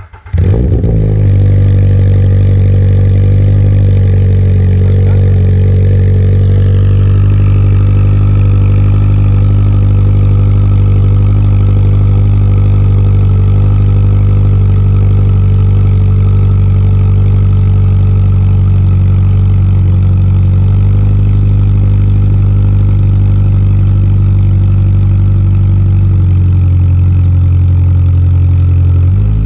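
2022 Subaru BRZ's 2.4-litre flat-four starting through an MXP Comp RS cat-back exhaust: it catches with a brief flare about a split second in, then settles into a loud, steady cold-start idle. A faint high whine falls in pitch about six seconds in.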